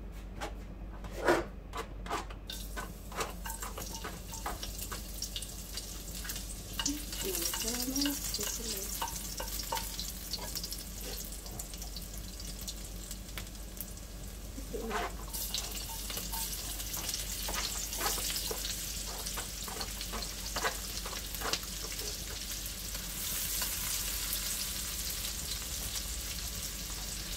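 Chopped garlic sizzling in hot oil in a non-stick wok, with a few sharp knocks in the first couple of seconds and scattered stirring ticks. The sizzle gets louder about halfway through as chopped onion goes into the oil.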